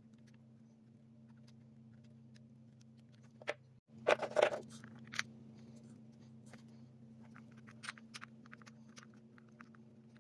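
Scattered small clicks and taps over a steady low hum, with a brief burst of clattering, rattling clicks a little under halfway in.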